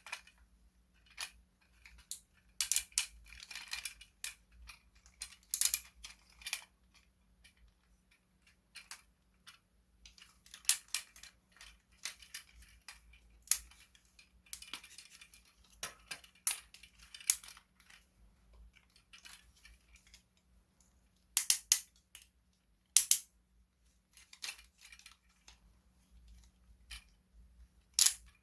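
Hands handling small plastic toy pieces: irregular sharp clicks, snaps and brief rustles, with the loudest snaps grouped around a third of the way in and near the end.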